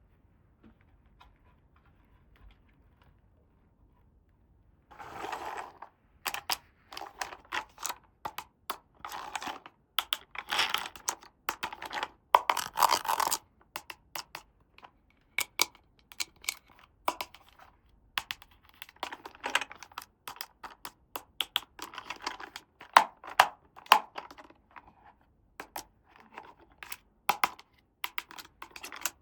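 Miniature plastic toy pieces and their packaging being handled: a run of sharp clicks and taps with scratchy, rustling scrapes, starting about five seconds in.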